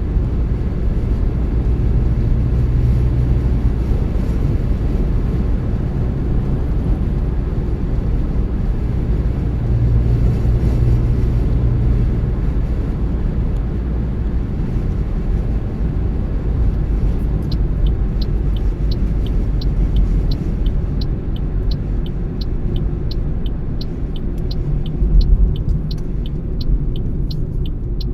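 A car driving, with a steady low rumble of tyres and engine. About two-thirds of the way in, a turn-signal indicator starts ticking evenly, about twice a second.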